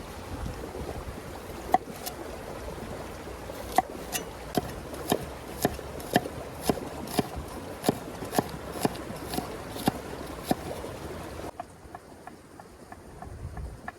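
A series of sharp knocks at an even pace of about two a second over a steady outdoor hiss, stopping abruptly with a drop in the background near the end.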